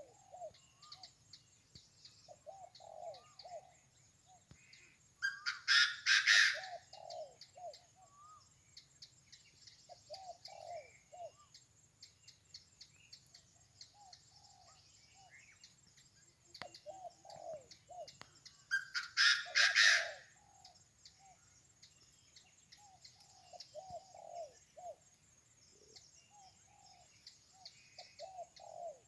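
Morning jungle bird chorus: many birds chirping, with repeated low calls throughout and two loud harsh calls about six seconds in and again near twenty seconds, over a steady high buzz.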